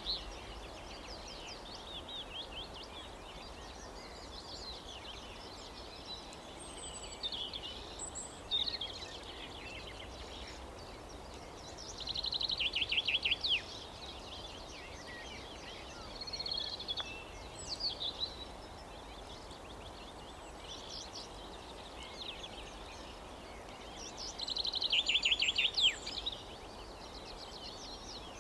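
Songbirds singing: scattered short chirps and whistles, and twice a rapid trill of quickly repeated notes lasting about a second and a half, over a faint steady background noise.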